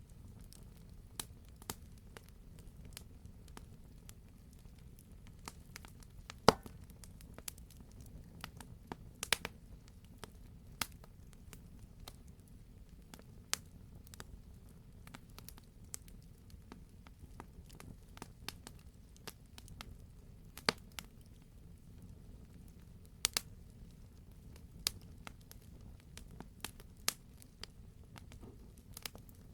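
Wood fire in a fireplace burning, with a steady low rumble and irregular sharp pops and crackles, a few of them louder, about a quarter of the way in and again near the middle.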